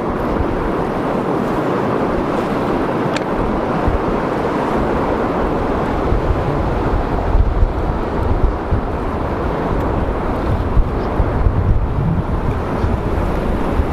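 Steady rush of fast-flowing water, with wind buffeting the microphone in low gusts that grow stronger about halfway through.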